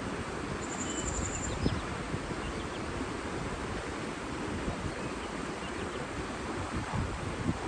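Nature ambience: a steady rush of water with wind gusting over the microphone, and a faint high trill and a few small bird chirps about a second in.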